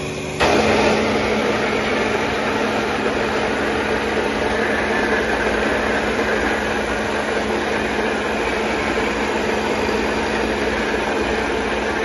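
High-pressure plunger pump (Speck NP16/15-210) driven by a 5.5 kW electric motor, running steadily. About half a second in the sound abruptly gets louder and fuller, then holds as an even hum with a hiss.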